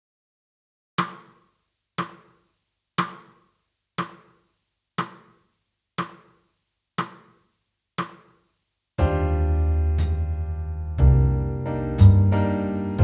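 Count-in of eight short clicks, one a second, at 60 bpm. About nine seconds in, a jazz backing track of piano and bass comes in.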